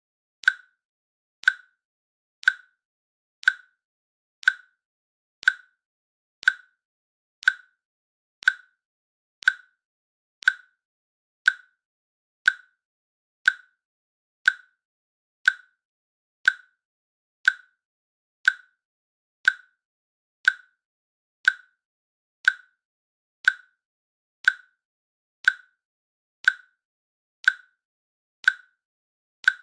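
A countdown timer's click sound ticking once every second, each click short and sharp and identical to the last.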